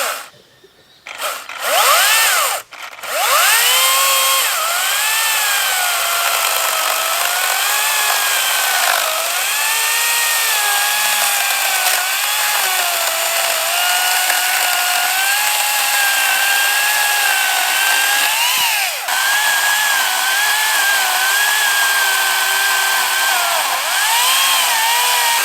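Makita battery-powered electric chainsaw cutting firewood: a short spin-up whine about two seconds in, then a continuous motor whine that sags and recovers in pitch as the chain bites into the wood. It stops briefly about 19 seconds in, then starts again.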